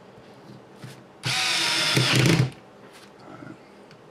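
Small electric screwdriver running for just over a second, driving in a screw, then stopping.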